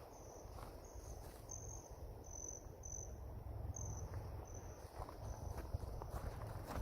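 A cricket chirping: short high chirps repeated evenly, about one every 0.7 seconds, stopping about five seconds in, over a faint low rumble.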